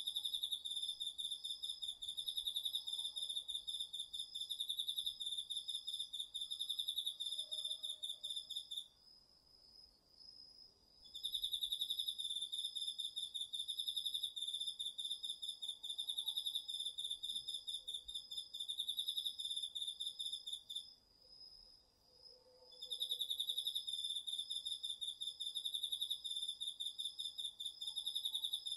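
Autumn crickets singing: one loud, fast-pulsing high trill that breaks off twice for about two seconds, with a second, fainter and higher steady trill from another insect running underneath.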